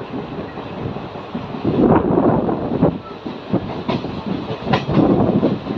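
An express passenger train running at speed, heard from an open coach window: the wheels rumble and clatter along the rails, with a few sharp clacks about two, four and five seconds in.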